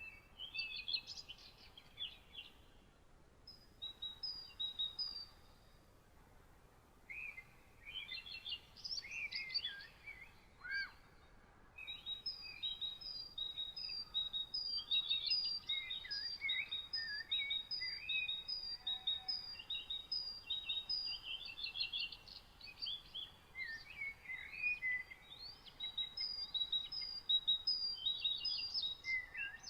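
Several songbirds singing in overlapping phrases of short chirps and whistled notes, with a run of quick, evenly repeated high notes. The song comes in separate phrases with short pauses at first and turns near-continuous about halfway through, over a faint steady hiss.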